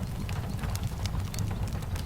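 Steady rain over a deep low rumble, with frequent short, sharp crackles and pops from a wood fire in a fireplace.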